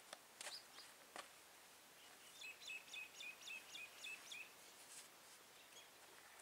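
Near-silent farmyard with a faint bird call: a quick series of about nine short, evenly spaced chirps in the middle, after a few faint clicks in the first second.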